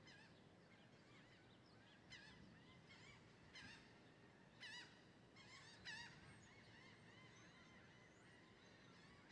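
Birds calling over and over, short sharp calls about once a second, the loudest about two, three and a half, five and six seconds in, over a faint steady outdoor hiss.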